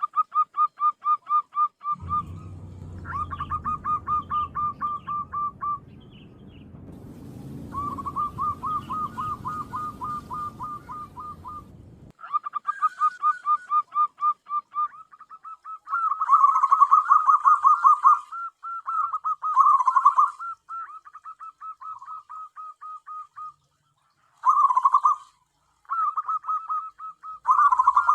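Zebra dove (perkutut) calling: phrase after phrase of quick staccato cooing notes, several a second, with short pauses between phrases. A low rumble runs underneath from about two seconds in to about twelve.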